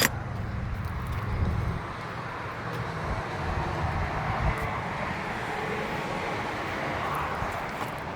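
Isuzu reefer truck's engine idling, then shutting off about two seconds in as its idle-shutdown timer cuts it. A steady background hiss follows.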